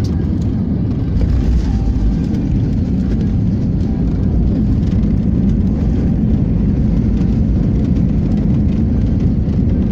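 Steady low rumble of a Thai Smile Air airliner landing, heard from inside the aircraft; it grows a little louder about a second in.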